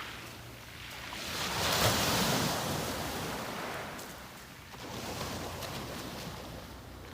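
Sea waves washing onto the beach: one wave swells and breaks about two seconds in, then a smaller one rushes in around five seconds.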